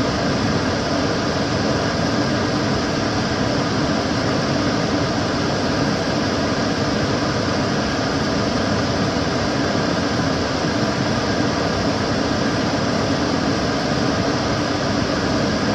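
Kitchen cooker hood extractor fan running steadily: an even rushing air noise over a low hum, with no change in speed.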